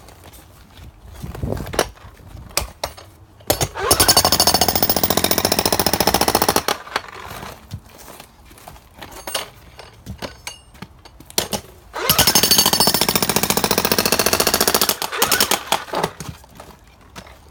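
Jackhammer breaking concrete in two runs of rapid hammering, each about three seconds long, with a pause between them. Quieter scattered knocks fill the gaps.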